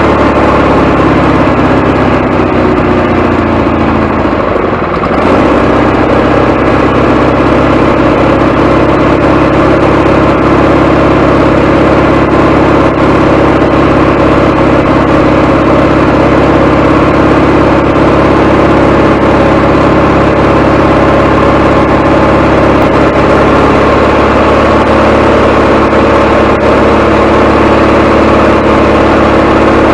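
Gasoline engine of a Wood-Mizer LT40HD sawmill running on a temporary fuel tank, fitted to test for air getting into the fuel line. Its pitch falls slightly at first and dips briefly about five seconds in, then it runs steadily. The owner thinks the carburetor is not letting enough fuel in.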